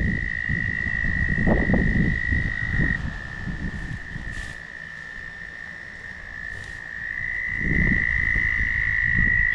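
Frogs calling in a continuous high, steady trill. A low rumbling noise is strong at first, fades away mid-way and comes back about three-quarters of the way through.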